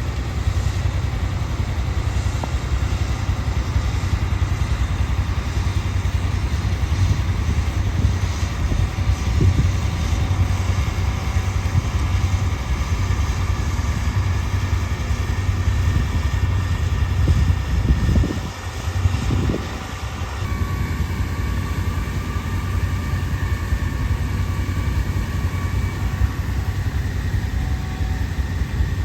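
Tractor engine running steadily with a deep rumble, briefly easing off about eighteen seconds in before picking up again.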